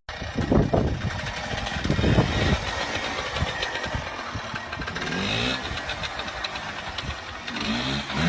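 Motorcycle engine running, revved a few times with the pitch rising briefly about five seconds in and again near the end.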